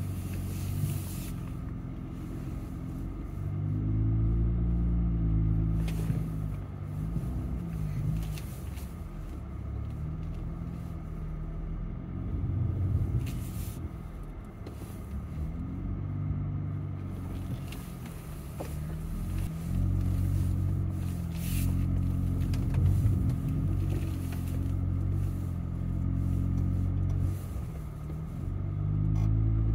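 Jeep engine heard from inside the cab, crawling along a rocky off-road trail, its pitch rising and falling as the throttle is worked. A few short knocks sound now and then.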